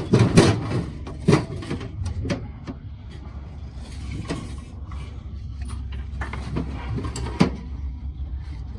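Scattered knocks and clicks of tools being handled while working on an engine, a cluster at first and then single knocks every second or few, over a steady low hum.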